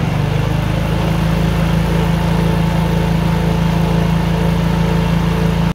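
Small motorcycle engine running steadily at one speed.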